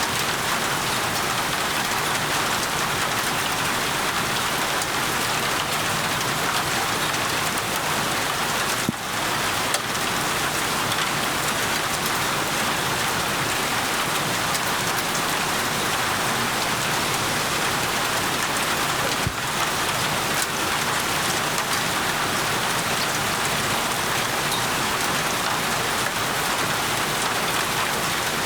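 Steady rain falling on surfaces, a dense, even patter.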